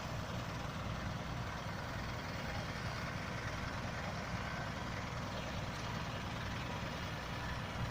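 A heavy vehicle engine idling steadily, a constant low rumble.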